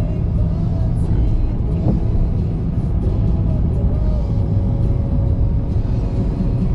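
Car driving on the road: a steady low rumble of tyres and engine heard from inside the cabin.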